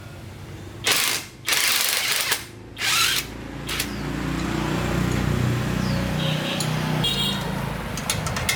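Three short bursts of loud hissing in the first few seconds, then a power tool running steadily.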